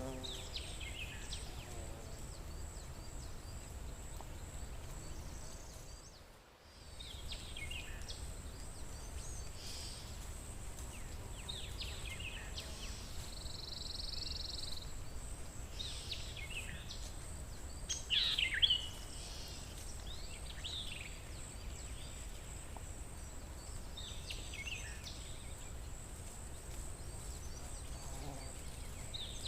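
Forest ambience: scattered short bird calls and chirps, one longer buzzy call a little past the middle and the loudest call about 18 seconds in, over a steady low rumble and a constant high insect whine. The whole background drops out briefly about six seconds in.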